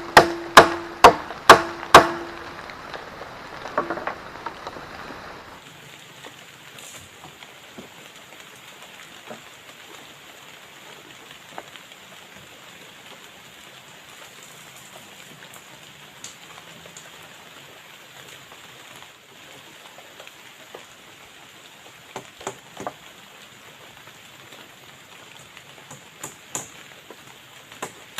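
Steady rain hiss, with a few sharp blows on wood at the start, about two a second and ringing, that stop after about two seconds. A few more blows come near the end.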